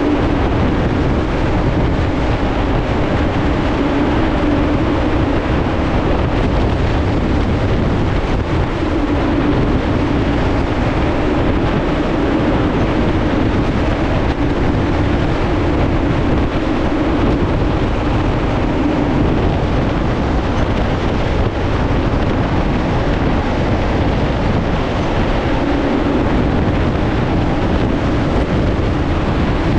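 Steady rush of high wind driven by the large fans of a full-scale wind test chamber, with a hum underneath that holds unbroken throughout.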